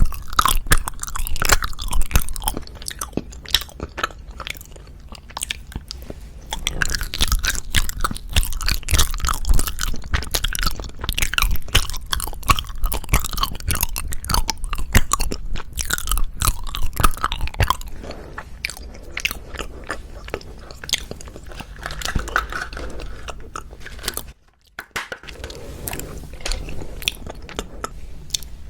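Close-miked biting and chewing of wagashi (hwagwaja) sweets: dense, irregular clicky mouth sounds, quieter in the last third, with a brief pause near the end.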